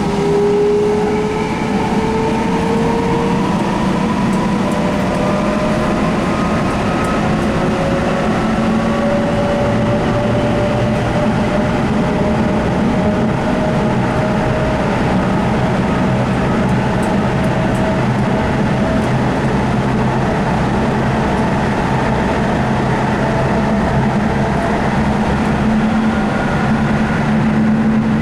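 Sound Transit Link light rail car running, heard from inside: a steady rumble of wheels on rail with a motor whine that slowly rises in pitch as the train gathers speed.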